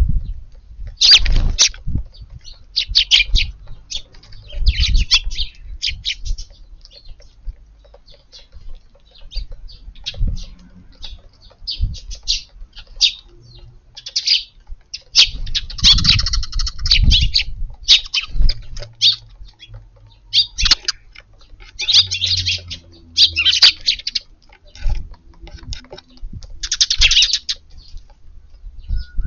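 Eurasian tree sparrows chirping in quick bursts of short high notes, again and again, with gusts of wind rumbling on the microphone.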